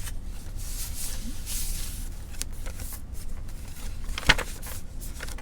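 Paper pages of a handmade journal being handled and turned, with soft rustling swells and light clicks, and one sharp tap or click about four seconds in.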